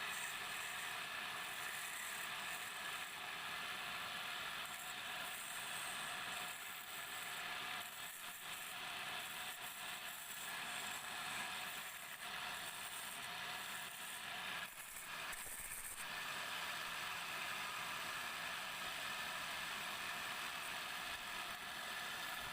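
Wood lathe running while a turning tool cuts the spinning wood, a steady hissing scrape that drops away briefly a few times.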